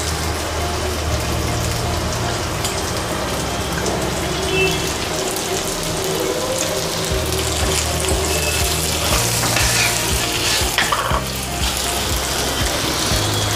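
Boiled pork frying in mustard oil in a nonstick wok: a steady sizzle, with a wooden spatula stirring the pieces near the end.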